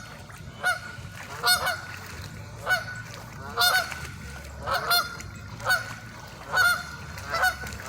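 Geese honking: short, nasal calls repeated about once a second, some in quick pairs.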